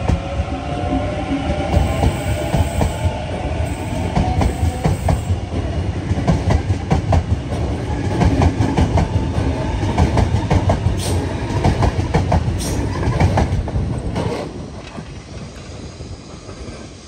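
Sydney Trains double-deck electric suburban train passing close by, its traction motors whining and rising in pitch over the first few seconds while the wheels click over rail joints, with a couple of sharp metallic clanks in the middle. The rumble fades as the last car pulls away, about three seconds before the end.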